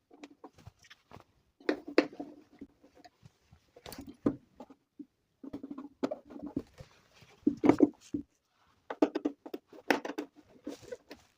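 Screws being driven into a plastic portable speaker-amplifier case: irregular clicks, taps and short rattles of a screwdriver and the casing being handled.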